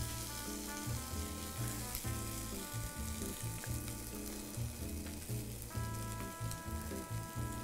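Crushed potato and diced speck sizzling as they fry to a crisp in a nonstick pan, turned over with silicone spatulas. Soft background music with held chords plays underneath.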